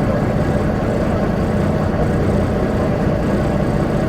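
Semi-truck's diesel engine running steadily, a low even rumble heard from inside the cab.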